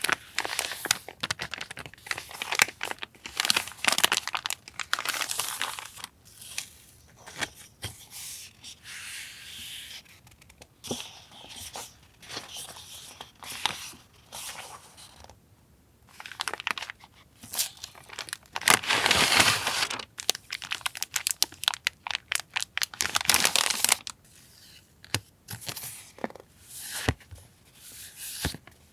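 Paper goods and their packaging being handled and unwrapped: bursts of rustling, crinkling and tearing with short taps and clicks between them, the loudest rustle coming about two-thirds of the way through.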